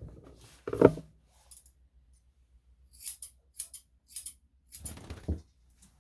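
Grooming scissors snipping the hair on a Yorkshire Terrier's ear: a quick run of short, crisp snips, with a couple of duller knocks from handling before and after.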